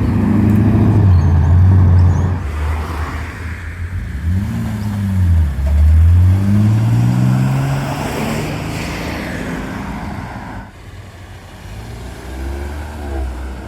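Car engines as cars drive out of a meet: a loud engine note, then one car's engine pitch dips and climbs as it accelerates past, fading about ten seconds in. Another engine is heard near the end.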